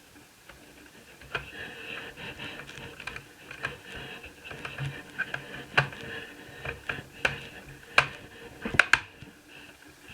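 Hard plastic and metal laptop parts handled on a work surface: a run of small clicks and clatter with several sharper knocks, the loudest near the end.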